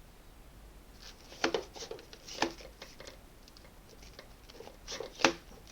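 Hard plastic vacuum cleaner attachments knocking and clicking as they are handled and fitted: a few short clicks and knocks in the middle and a sharper click near the end.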